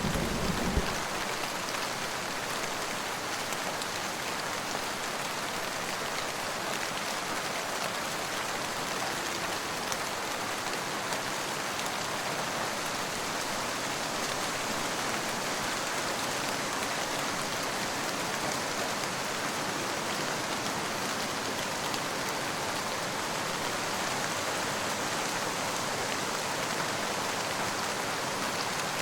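Steady rain falling in an even hiss. The tail of a low thunder rumble dies away in the first second.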